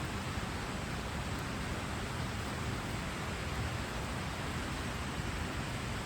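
Steady rushing noise with no distinct events, heaviest in the low end.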